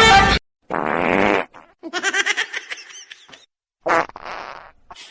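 Two rasping, fart-like blasts, the first about a second long and the second shorter near the end, with a run of quick, choppy laughter between them.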